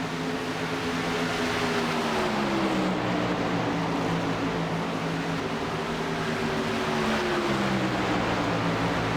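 Truck engines running hard over a steady rush of noise. The engine note drops in pitch about two seconds in and again about seven seconds in.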